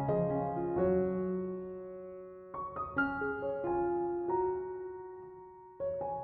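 Background piano music: soft chords and melody notes that ring and fade slowly, with fresh chords struck a few times.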